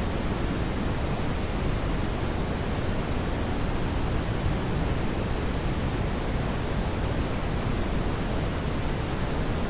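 Steady brown noise: an even, unchanging rumble-like hiss, heaviest in the low end.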